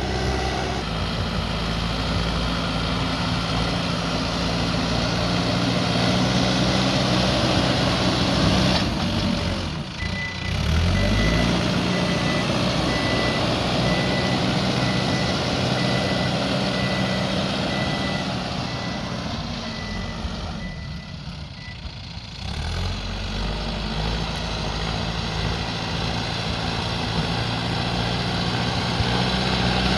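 Backhoe loader's diesel engine running steadily under work, with its reversing alarm beeping in a quick, even series through the middle as the machine backs up. The engine drops off briefly about ten seconds in and eases down for a couple of seconds near twenty seconds before picking up again.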